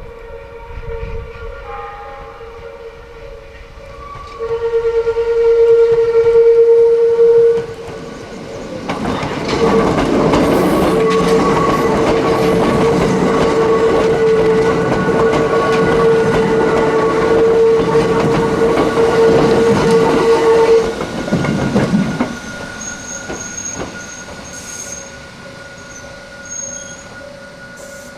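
A Hakone Tozan Railway electric train passing for about twelve seconds, its wheels and running gear rumbling and clattering on the rails. A steady high ringing tone sounds through most of it, swelling loud for about three seconds before the train arrives and stopping as the train clears.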